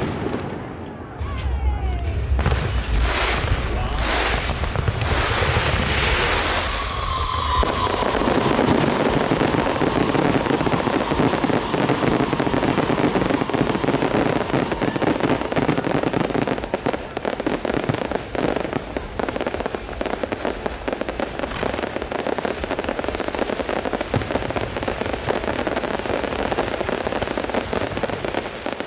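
Aerial fireworks display: several separate shell bursts come one after another in the first seven seconds, with a falling whistle about seven seconds in. A dense, continuous barrage of rapid crackling bursts then runs through the rest.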